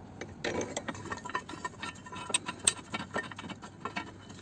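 Irregular metallic clicks and clinks of hand tools and bolts on a car's subframe and engine mount bracket, some with a short ring.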